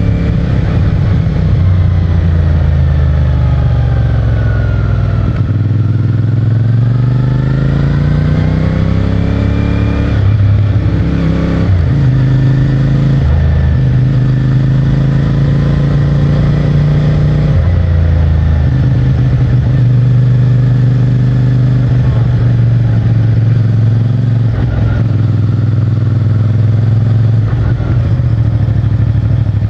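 CFMOTO 450MT's parallel-twin engine running through its stock exhaust while being ridden. The revs fall off over the first few seconds, then climb as it accelerates, with pitch breaks that sound like gear changes about ten and seventeen seconds in, followed by steady cruising.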